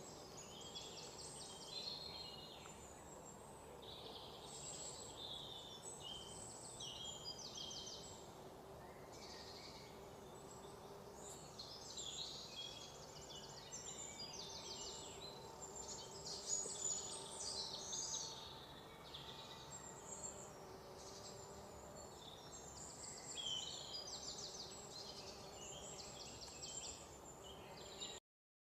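Many birds chirping and chattering at once, with short calls and quick trills overlapping continuously over a low outdoor background noise. The sound cuts off suddenly near the end.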